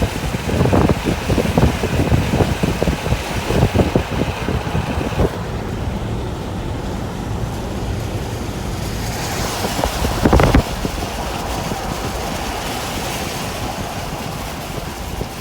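Wind buffeting the microphone as a low rumble, gusty for the first five seconds and then steadier, with one brief louder burst about ten seconds in.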